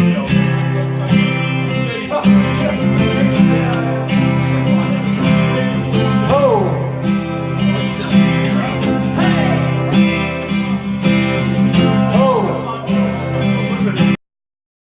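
Live instrumental music led by a strummed acoustic guitar, with a melodic line that bends in pitch twice. It cuts off suddenly about fourteen seconds in.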